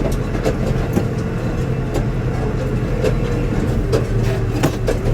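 An engine running steadily under a low hum, with loose rattles and clanks scattered through, more of them about four seconds in.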